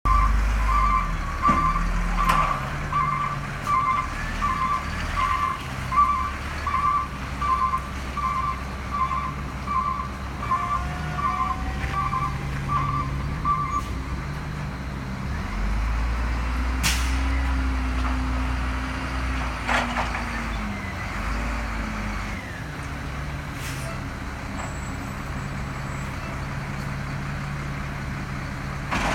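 Garbage truck's diesel engine running while its backup alarm beeps steadily, about one and a half beeps a second. About halfway the beeping stops and the engine note rises for a few seconds, with a couple of sharp hisses or clanks.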